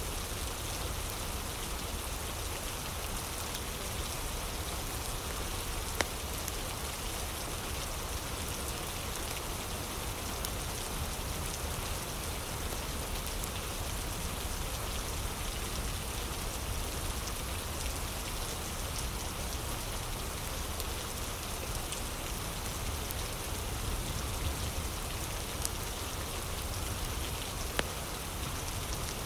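Steady rain mixed with a crackling fire: an even rain hiss with a few sharp pops, the loudest about six seconds in and a few more near the end.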